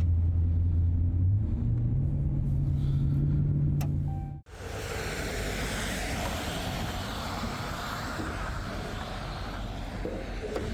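Plow truck's engine running steadily with a low hum that steps up in pitch about a second and a half in. It cuts off suddenly about four seconds in, and a steady rushing noise follows.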